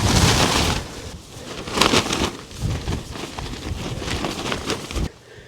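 Gale-force wind gusting on the microphone, a loud hissing gust in the first second and rumbling buffets after it, with scattered short knocks and rustles of the tent and pegs being handled.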